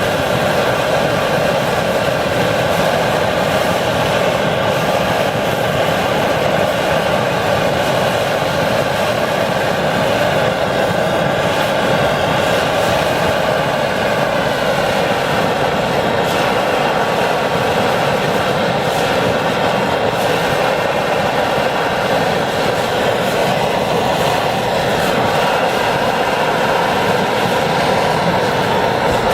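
Phoebus 725 pressurized gasoline stove burner burning with a steady rushing noise and a faint steady whine on top.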